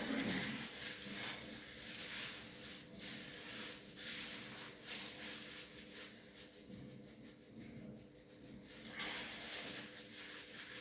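Gloved hands rubbing and working hair dye through hair: an uneven, soft rustling and squishing, quieter for a few seconds past the middle.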